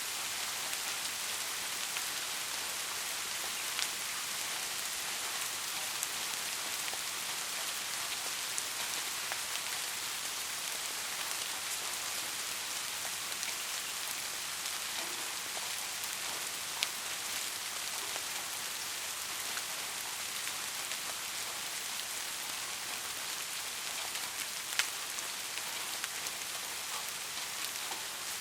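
Steady rain falling on a surface, a dense even hiss with scattered sharper drop hits standing out now and then.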